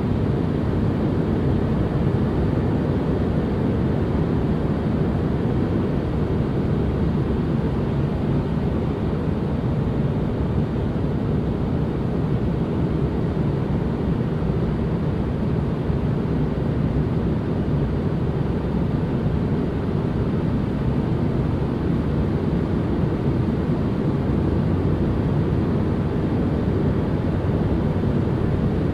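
Relaxation white-noise ambience: a steady, unchanging rushing noise, weighted to the low end like a deep rumble, with little high hiss.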